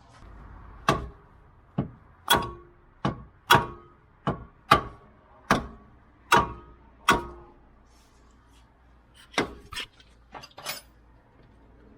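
Repeated sharp metal strikes, each with a short ring, roughly one every half to three-quarters of a second, then a pause and a few quicker lighter ones near the end: a Torque Solution rear engine mount being knocked into its bracket on a 10th-gen Honda Civic.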